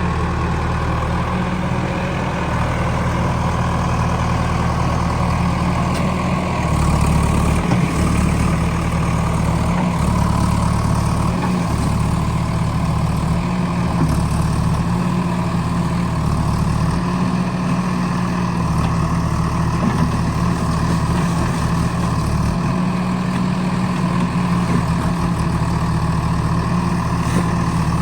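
Heavy diesel engine running steadily, its low drone swelling and easing every few seconds as the load changes.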